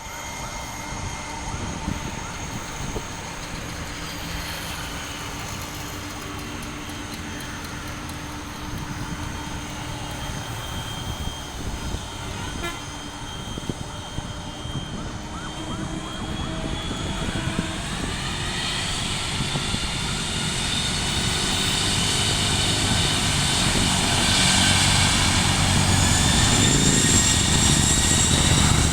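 Jet airliner engines running and getting steadily louder, with a whine that rises in pitch through the second half as the engines spool up: a cargo jet powering up for its takeoff roll.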